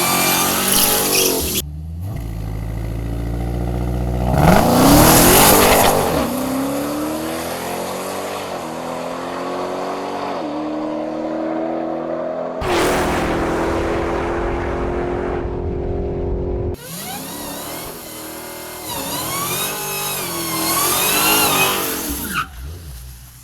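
Dodge Challenger SRT Demon 170's supercharged 6.2-litre V8 revving and accelerating in several short cut-together clips, its pitch climbing and dropping through the gears. A high wavering squeal comes at the start and again near the end.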